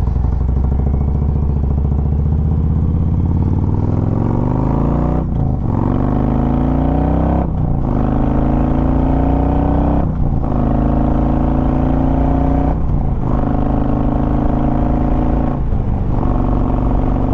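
Harley-Davidson Road Glide Ultra's Twin Cam 103 V-twin accelerating up through the gears, the engine note climbing after each of about five quick upshifts.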